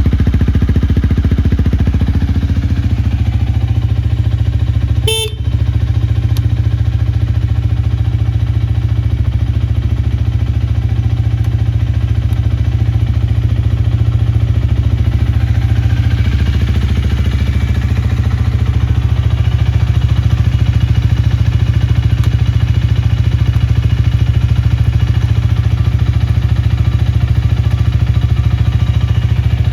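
Honda Rebel 250's single-cylinder engine idling steadily through a Moriwaki aftermarket muffler. There is a brief break in the sound about five seconds in.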